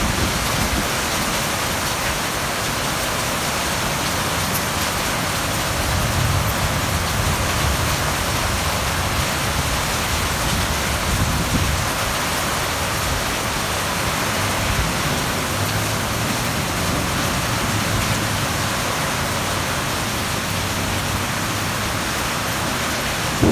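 Heavy rain mixed with hail pouring down, a dense, even hiss that holds steady throughout.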